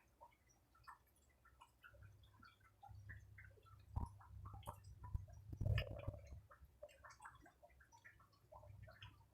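Close-up chewing of fried flour fritters: faint, scattered wet mouth clicks and smacks, with a louder bite and chew just under six seconds in.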